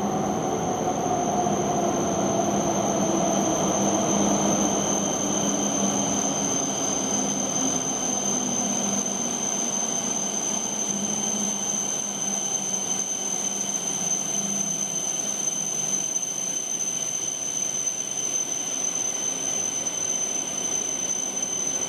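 E7/W7-series Shinkansen train pulling into the platform and slowing to a stop: its motor whine falls slowly in pitch over the wheel rumble and fades away about halfway through, over a steady high-pitched tone.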